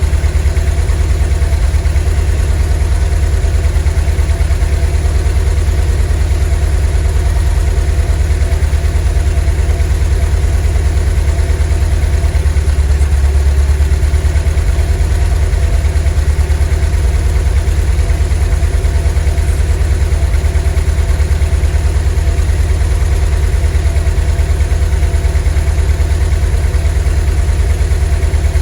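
VW T3 bus's 2.1-litre WBX water-cooled flat-four engine idling steadily, a deep even rumble that swells slightly about halfway through.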